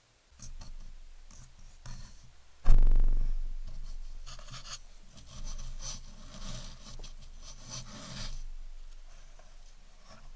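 Rubbing and scraping sounds, with one heavy thump about two and a half seconds in that fades away.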